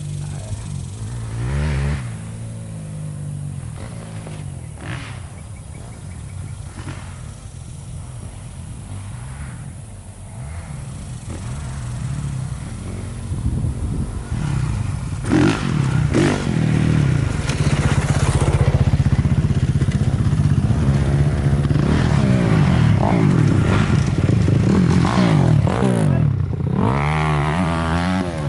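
Four-stroke Honda CRF250 dirt bike engine revving through the gears on a motocross track, faint and distant at first, then growing louder about halfway through as the bike comes close, with repeated rising and falling revs.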